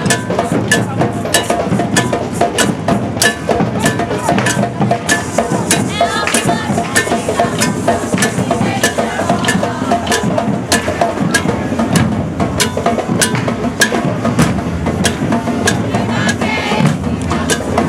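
Maracatu de baque virado percussion playing: deep alfaia bass drums rumbling under sharp, evenly spaced strikes.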